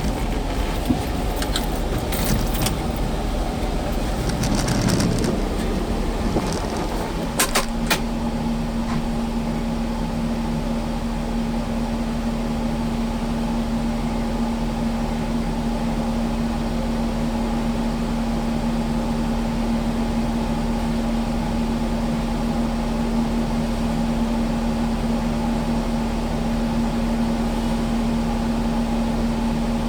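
Kubota skid steer's diesel engine idling steadily, with a few sharp clicks and knocks in the first eight seconds.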